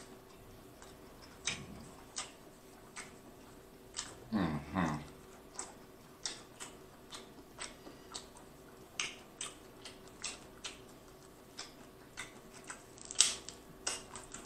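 Close-miked chewing of snow crab meat: soft wet mouth clicks and smacks, about one or two a second. About four seconds in there are two short falling vocal sounds from the eater.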